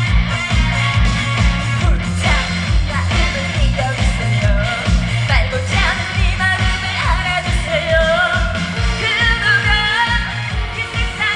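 A woman singing a trot song live through a PA, over an amplified backing track with a steady, regular drum beat.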